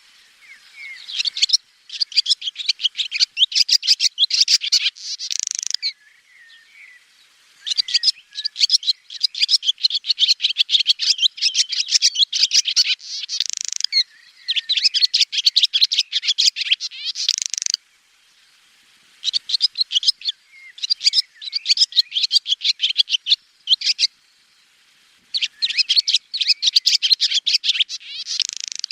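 Swallow singing: fast runs of high chirps and twittering trills in phrases of a few seconds each, separated by short pauses.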